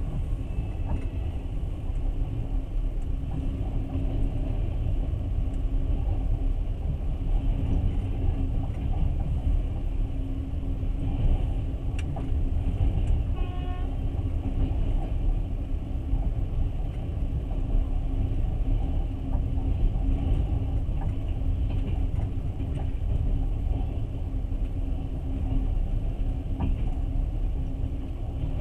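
Passenger train carriage running along the track: a steady low rumble of wheels on rails with a constant low hum, and a brief high tone about halfway through.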